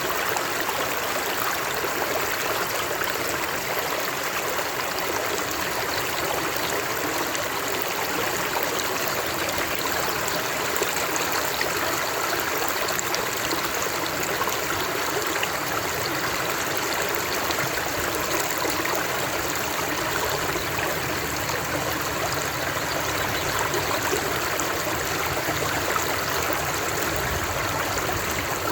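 Water flowing steadily over rocks, like a stream or small cascade, in a constant even rush with no pauses.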